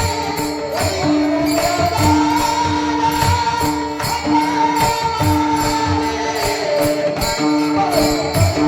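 Kirtan devotional music: held keyboard-like notes and a wavering melody over steady drum beats and jingling percussion.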